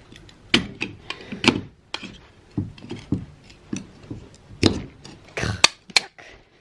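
Irregular clicks and knocks of small metal door hardware and hand tools being handled as an antique door lock mechanism is taken apart, with a cluster of sharper knocks near the end.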